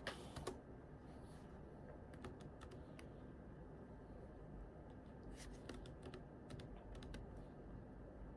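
Computer keyboard typed on softly: scattered keystrokes near the start and a couple of seconds in, then a quicker run of keys a little past the middle.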